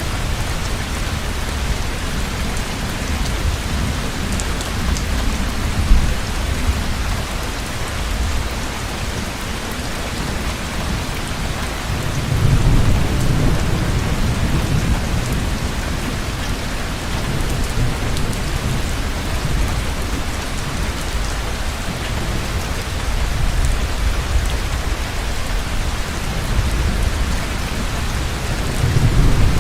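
Heavy rain falling steadily, with low rolls of thunder swelling about halfway through and again near the end, and a single sharp crack about six seconds in.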